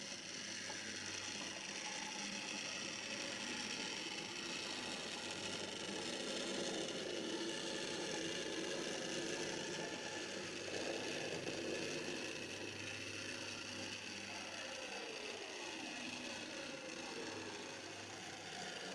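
The small electric motor and low gearing of an OO-gauge Kerr Stuart Victory model tank locomotive, running slowly along the track with a steady whir and a ratcheting gear noise, with no sound decoder fitted. The pitch drops about three-quarters of the way through.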